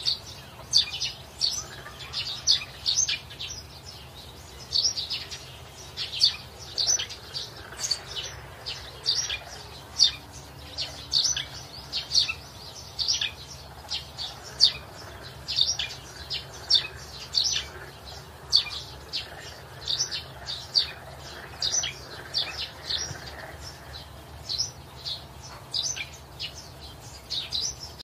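Small birds chirping: a steady string of short, high, sharp chirps, about two a second, over a faint low background hum.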